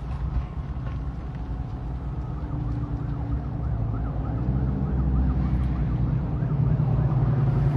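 Emergency-vehicle siren in the distance, rising and falling quickly about two or three times a second, starting a few seconds in. Underneath it is a steady low rumble that grows louder about halfway through.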